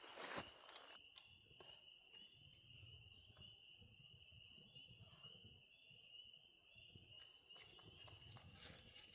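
Crickets trilling steadily at one constant high pitch, faint, with a brief loud crackle just after the start and scattered soft clicks and a low rumble.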